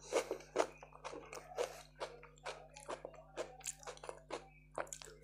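Close-miked chewing and biting of raw salad, with a slice of tomato bitten into: crisp, wet mouth clicks a few times a second.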